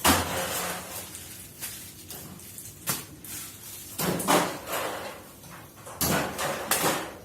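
Groceries being handled and packed in a kitchen: a run of rustles and knocks, loudest at the start, about three seconds in, and again around four and six seconds in.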